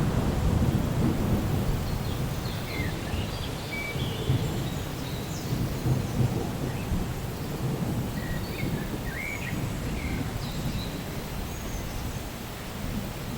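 Rolling thunder rumbling low and slowly fading away over steady rain, with a few short high bird chirps scattered through it.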